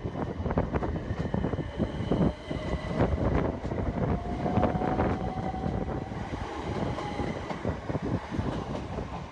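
Southern Class 377 electric multiple unit moving slowly past the platform. Its wheels knock and click over rail joints and points, and a faint motor whine rises slowly in pitch through the middle.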